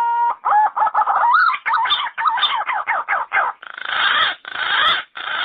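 Yellow-footed green pigeon singing: a rising whistle runs into a quick string of wavering, warbling whistled notes, which turn rougher and harsher over the last two seconds.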